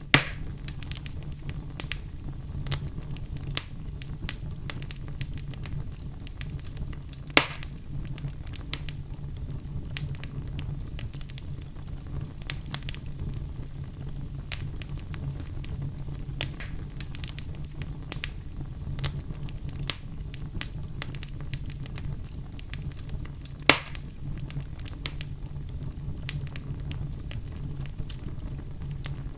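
Wood fire burning in a fireplace: a steady low rumble with frequent small crackles and three louder pops, one right at the start, one about seven seconds in and one about twenty-four seconds in.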